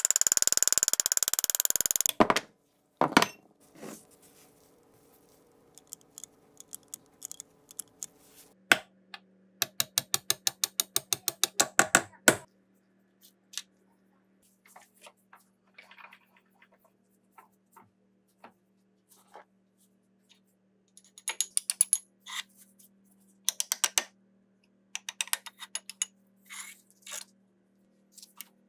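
Hand-tool work on metal gun parts: about two seconds of harsh scraping at the start, then runs of sharp metallic clicks, several a second, in the middle and again near the end. A faint steady hum runs under the later part.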